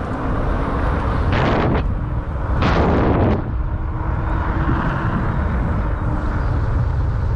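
Wind and road noise rushing over a GoPro Hero8's microphone while riding an Ecotric 500-watt fat-tire electric bike: a steady low rumble and hiss, with two short, louder hissing gusts about one and a half and three seconds in.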